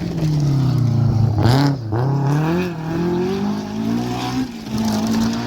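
Car engine under load, its pitch falling off, dipping, then rising again as it accelerates and settling near the end.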